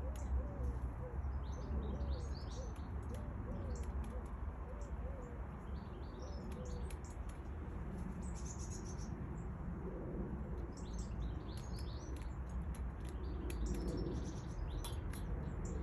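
Small garden birds chirping and calling in short, scattered bursts, over a steady low rumble.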